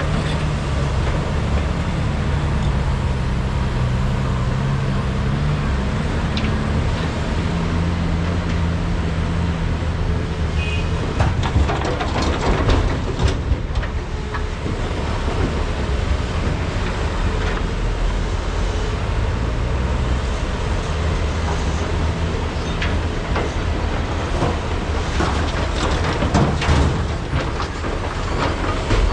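Diesel engines of large hydraulic mining excavators running under load, their pitch rising and falling as they work. Clattering knocks of rock and bucket come about a third of the way in and again near the end, as material is loaded.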